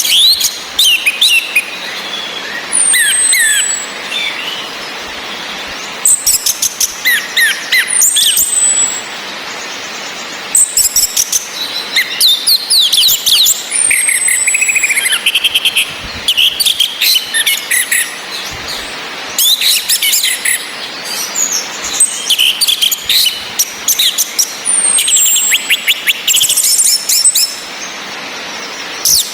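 Orange-headed thrushes calling and singing: bursts of rapid chirps and whistles, with a high note sliding downward every few seconds, over a steady background hiss. These are the female's calling whistles and the male's relaxed song, played to stimulate caged birds to sing.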